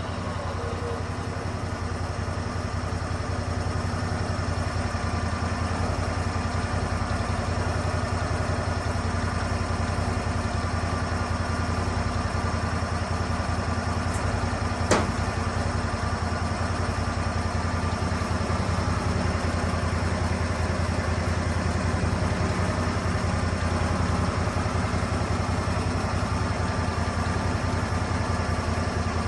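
Lucas Mill 10-30 portable sawmill's engine running steadily, building slightly over the first few seconds, with a single sharp click about halfway through.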